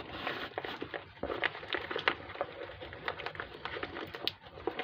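Irregular small clicks and scrapes of hand work on motorcycle hardware, as bits lodged in the part are dug out.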